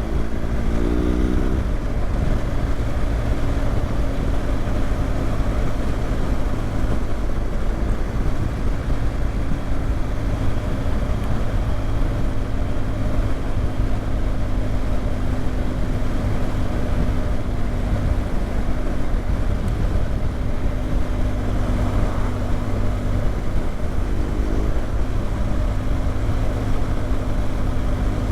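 BMW GS motorcycle being ridden, its engine running steadily under heavy wind noise on the microphone. The engine note rises briefly in the first second or so, and again about 24 seconds in.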